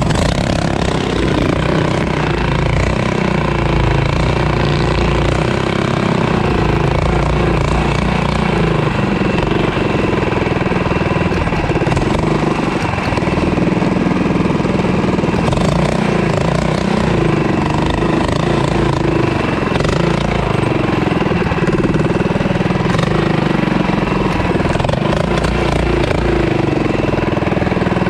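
Mini bike's small engine running steadily during a ride.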